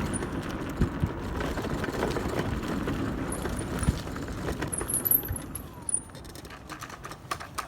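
Electric hub-motor pit bike riding over rough, muddy ground: steady rumble of tyres and wind, with knocks and rattles from the bike and a few brief high squeaks. It quietens near the end.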